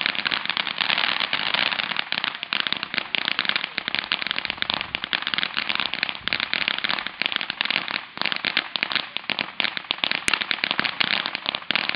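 Ground fountain fireworks spraying sparks with a dense, continuous crackle of tiny rapid pops.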